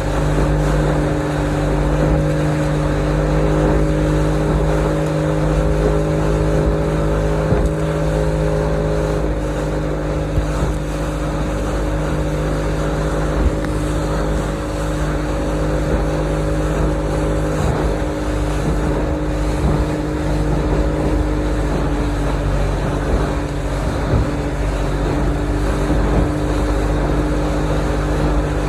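Motorboat engine running steadily under way, with a constant engine hum and water and wind noise; the pitch shifts slightly about nine seconds in.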